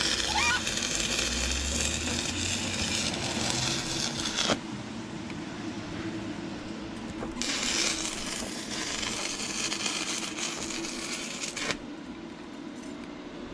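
Stick-welding arc crackling and sizzling as a 6011 rod burns on thin, rusty, painted steel, in two runs: the arc goes for about four and a half seconds and breaks off sharply, then is struck again about three seconds later and runs about four seconds more before stopping.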